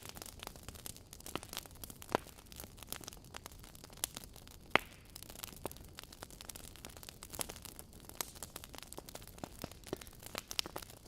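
Wood fire burning in a fireplace: irregular crackles and pops of burning logs over a soft steady hiss, with two sharper pops standing out, one about two seconds in and a louder one near five seconds.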